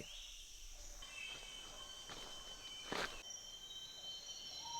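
Faint forest ambience of insects: a steady high-pitched drone, with one short knock about three seconds in.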